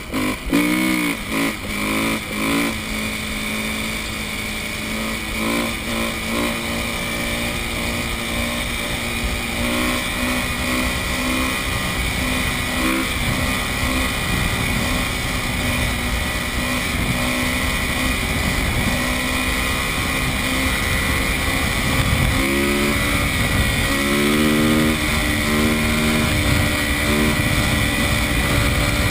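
Four-stroke dirt bike engine revving in quick blips in the first few seconds, then running steadily, with more rising and falling revs a little after twenty seconds.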